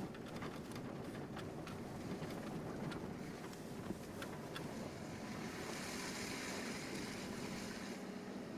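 Car driving on a snow- and slush-covered road, heard from inside the cabin: a steady engine and tyre rumble with scattered light ticks. A hiss of tyres through wet slush swells about five seconds in and fades near the end.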